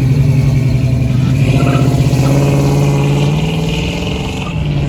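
A car engine running loudly at low revs, its pitch rising a little about three seconds in and then holding.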